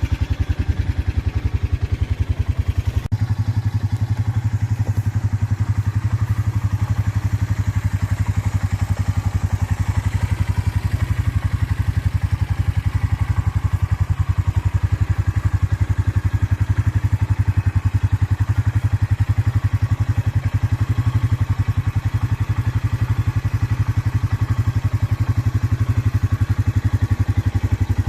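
Motorbike engine idling steadily, a rapid even pulsing that shifts slightly in tone about three seconds in.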